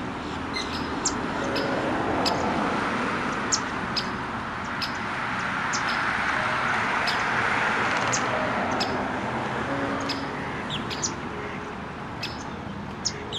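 Small birds chirping: short, sharp high chirps repeated every half second or so, over a steady rushing background noise that swells in the middle and eases toward the end.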